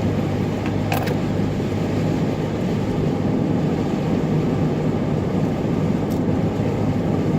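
Steady engine and tyre noise inside a car's cabin, driving at about 42 mph on a snowy road, with a sharp click about a second in.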